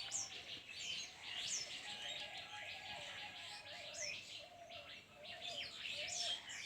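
Several birds chirping and twittering at once, a dense chorus of short calls with quick, high down-slurred whistles every second or so. A fainter, lower wavering note runs beneath them.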